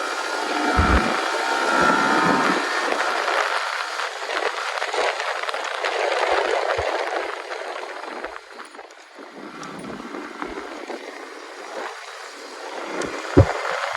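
Road and wind noise from riding a motorcycle, recorded on a camera mounted on the bike or helmet, rising and falling unevenly. There is a brief high tone early on and a single sharp knock near the end.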